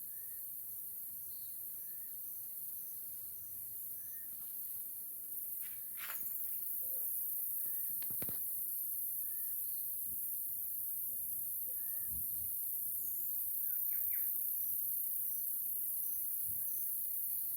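Forest ambience: insects buzzing steadily at a high pitch, and a bird repeating a short chirp every couple of seconds. A few sharp snaps come about six and eight seconds in.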